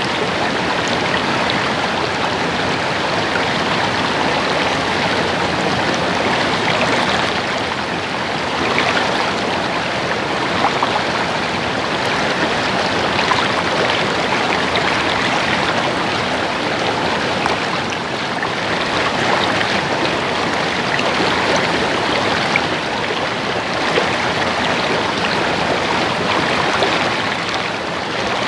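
Stream water babbling and splashing over rocks, a steady rush with small splashes throughout.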